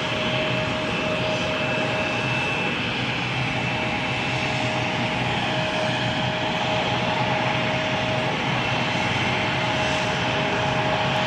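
Bombardier CRJ900 regional jet's turbofan engines running steadily at low power, a constant rush with a steady high whine over it.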